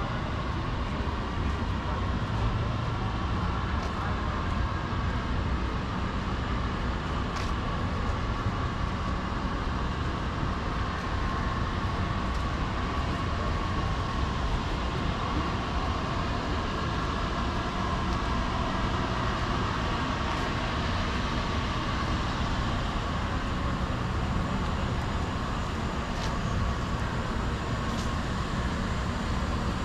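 City street ambience: steady traffic noise with background voices, and a few brief clicks.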